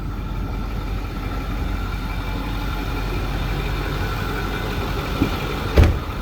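Turbodiesel engine of a 2008 Ford bucket truck idling steadily, with a single thump near the end.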